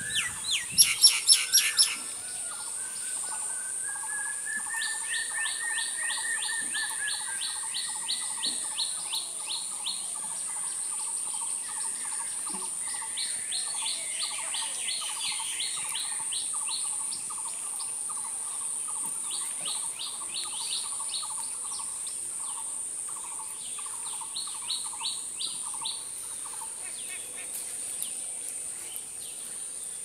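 Several songbirds singing: a loud, fast trill in the first two seconds, then repeated runs of quick high notes over a lower, steadily pulsing chatter, with a steady high-pitched hiss underneath.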